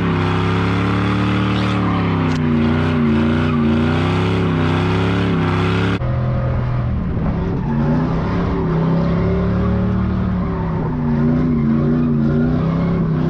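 Truck engine held at high revs during a burnout, its pitch swinging up and down as the throttle is worked, with spinning tyres hissing underneath. The sound changes abruptly about six seconds in, where a second burnout run picks up at a similar pitch.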